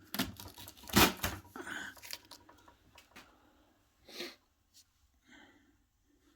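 Handling sounds of plastic parts and packaging being unpacked: a few sharp knocks and scrapes, the loudest about a second in, thinning out to faint clicks and rustles.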